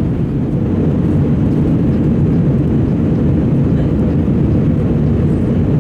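Steady cabin noise of an Airbus A320 in flight: an even low rumble of engines and airflow heard from inside the cabin.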